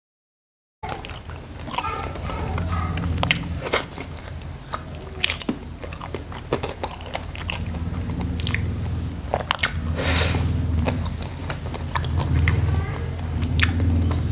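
Close-miked chewing and lip-smacking with many short, sharp mouth clicks, starting after about a second of silence. A low steady hum runs underneath.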